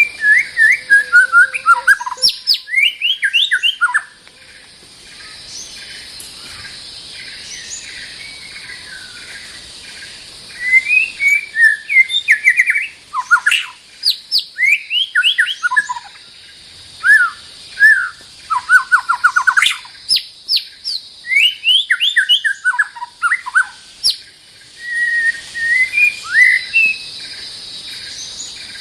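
White-rumped shama singing loud, varied phrases of rapid sweeping whistles and trills, coming in bursts with a quieter passage about a quarter of the way in. A steady high hiss runs behind the song.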